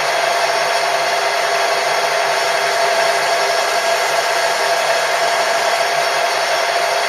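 A metalworking machine tool running steadily, with a constant mid-pitched whine over a broad hiss and no change in speed.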